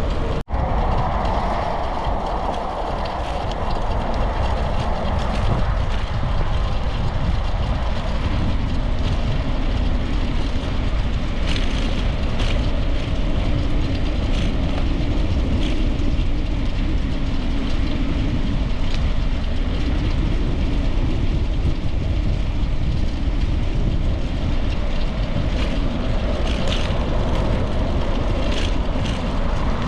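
Steady wind rush and rumble over the microphone of a camera on a moving bicycle, with tyre and road noise underneath. The sound cuts out for an instant about half a second in.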